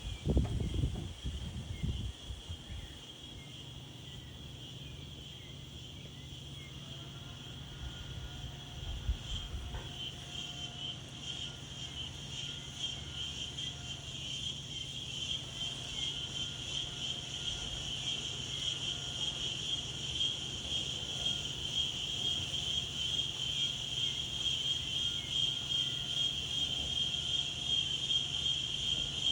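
Insects chirring in a steady high-pitched drone that slowly grows louder, over a low steady hum. A few low gusts of wind come in the first couple of seconds.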